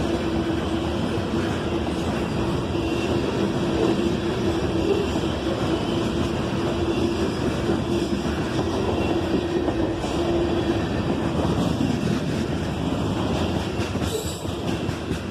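Freight train rolling past, its steel wheels clacking over the rail joints in a steady rumble. A steady tone runs under it and fades out about two-thirds of the way through.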